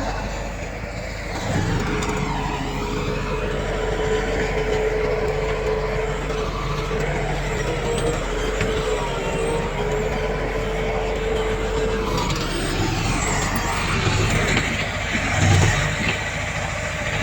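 Heavy diesel earthmoving machinery running, with a steady high whine through most of it and a louder surge near the end.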